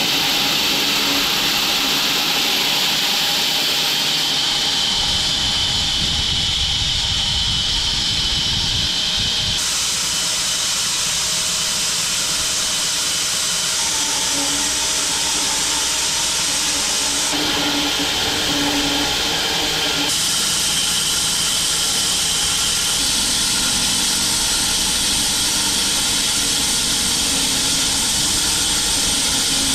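Large home-built bandsaw mill running and cutting through an acacia log: a steady, loud hissing whine of the blade in the wood over the machine's running noise. The tone shifts suddenly a few times.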